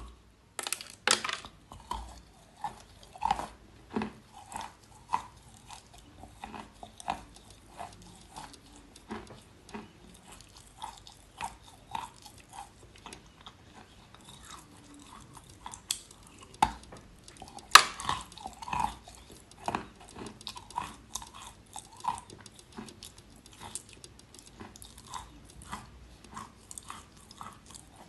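Close-miked crunching and chewing of edible chalk: sharp, dry crunches about once a second with smaller crackles between them, one especially loud crack partway through.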